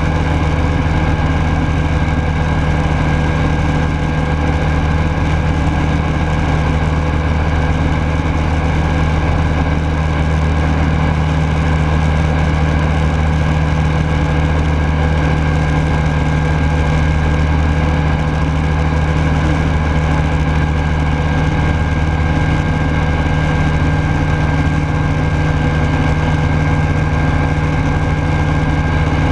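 Rotax 912S four-cylinder boxer engine of a Rans Coyote S6 ultralight running at a steady, unchanging speed, heard from inside the cockpit.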